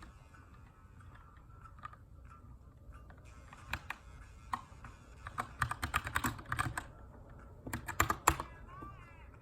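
Keychron K2 aluminium mechanical keyboard with brown switches being typed on: a few scattered keystrokes, then a quick run of keys about halfway through and another short burst near the end. Faint background music underneath.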